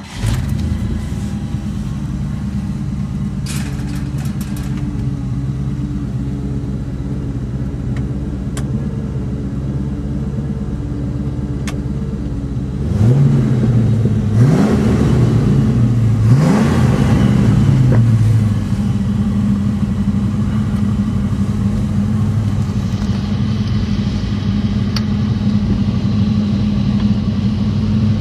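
1969 Ford Mustang Mach 1's 351 four-barrel V8 starting up and settling into a steady idle. About thirteen seconds in, the throttle is blipped three times in quick succession, each a rising rev, before it drops back to idle.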